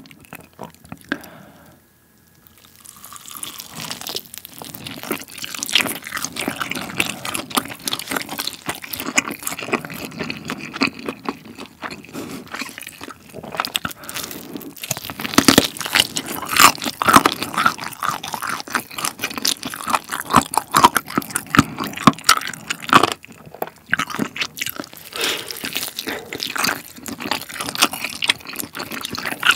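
Close-miked biting and chewing of Goobne Gochu Basasak chili-pepper chicken: a dense run of crisp crunches and crackles from the seasoned coating and meat, starting a few seconds in and loudest through the middle.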